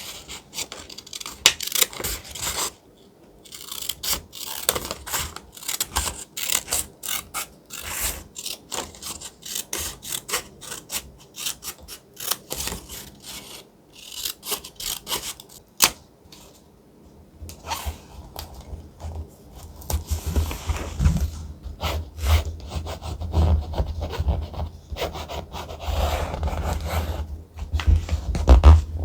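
Thick paper being handled and rubbed, crackling, rustling and scraping in quick runs, with short pauses about 3 seconds in and around the middle. In the second half, low thumps and rumble from the paper being pressed against the journal join the rustle.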